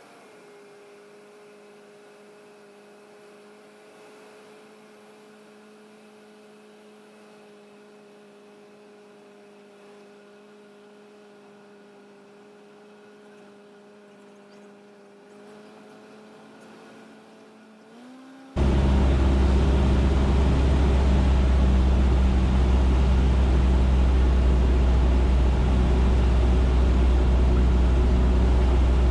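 Cessna 150's Continental O-200 engine heard faintly at low power as a steady drone. About two-thirds of the way in, its pitch rises briefly, then the sound jumps abruptly to a loud steady engine and cabin drone, as at high power.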